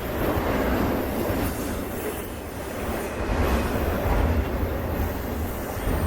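Freight train rolling past on the rails: a steady noise of wheels and cars, swelling slightly and easing as cars go by.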